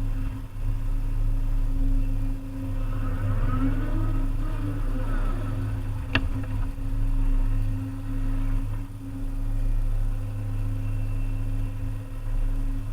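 Volvo EC300EL excavator's diesel engine running steadily under varying load as the machine works, its level rising and falling. Brief high squealing comes between about three and five seconds in, and a single sharp knock about six seconds in.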